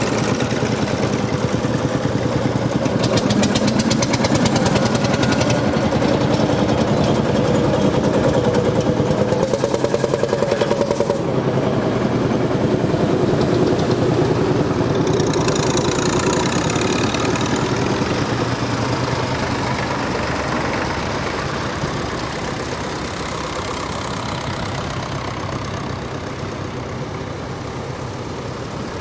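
Tractor engines running close by with a steady, rapid firing beat, slowly growing fainter over the last several seconds.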